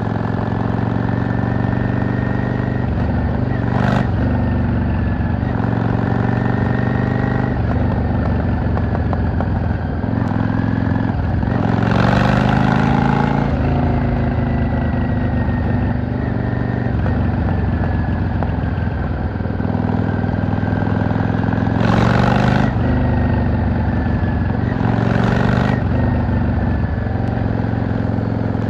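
V-twin cruiser motorcycle engine running under way, its pitch rising and falling as the rider opens and closes the throttle and changes gear, with a few short rushes of noise along the way.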